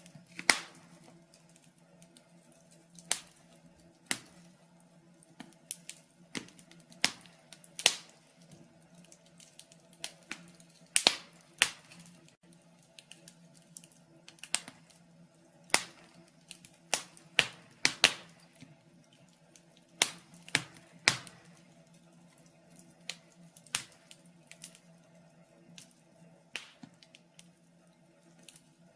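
Wood fire in a fireplace crackling, with sharp pops and snaps at irregular intervals over a faint steady hum.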